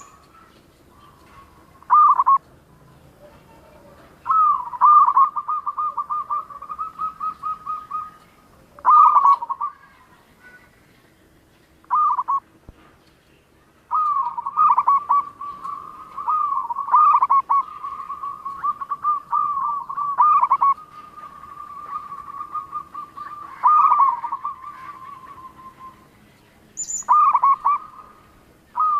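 Zebra dove (perkutut) singing: repeated phrases of rapid, stuttering coos, some short and some running on for several seconds, with short pauses between them. A brief high chirp sounds near the end.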